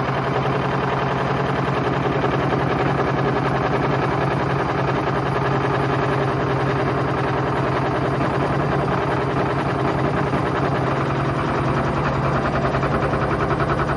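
Candy Grand O Vita GV149T3W washing machine spinning at high speed with a loud, rapid, continuous knocking and rattling over a steady motor hum. The knocking is the sign of a broken drum spider arm letting the drum strike the tub.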